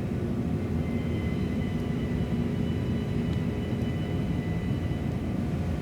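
Steady low mechanical rumble with a few faint, steady high tones above it, unchanging throughout.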